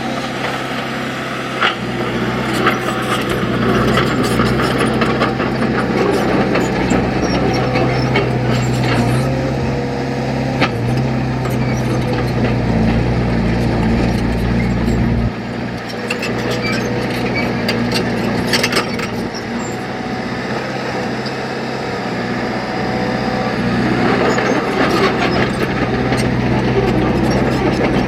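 Heavy earthmoving machinery's diesel engine running under load, its engine note shifting abruptly a few times, with scattered clanks and knocks.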